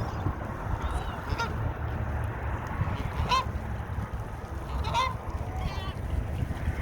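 Geese honking: four short calls spaced a second or two apart, over a steady low background rumble.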